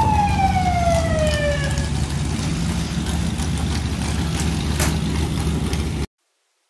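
Off-road vehicle engines running with a steady low rumble. Near the start a single high tone slides slowly downward over about two seconds, and the sound cuts off abruptly near the end.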